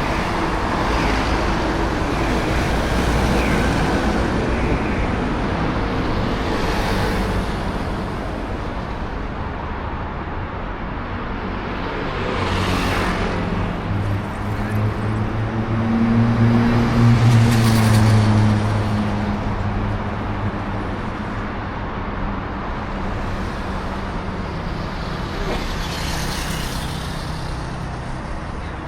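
Road traffic on a city street: a steady rumble with several vehicles passing by. A heavy vehicle's low engine hum swells loudest between about fifteen and nineteen seconds in, then fades.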